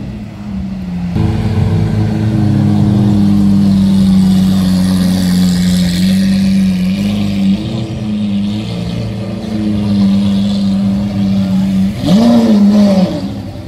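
Lamborghini Aventador V12 engine, loud, holding a steady, slightly wavering note as the car moves off, with one quick rev that rises and falls near the end.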